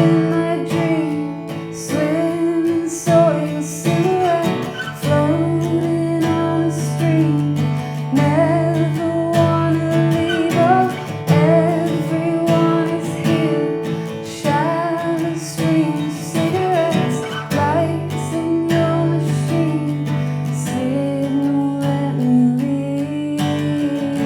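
A woman singing a song to her own strummed acoustic guitar.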